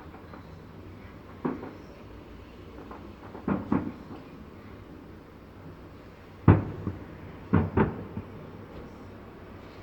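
Fireworks shells bursting at a distance: about seven dull booms at irregular intervals, some in quick pairs, the loudest a little past the middle.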